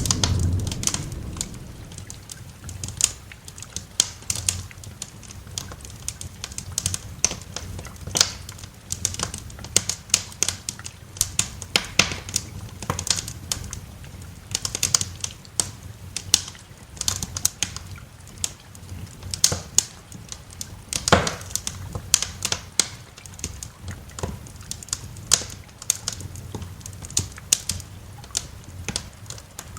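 Wood fire crackling and popping, with sharp irregular snaps throughout. A roll of thunder dies away about a second in, over a low steady rumble.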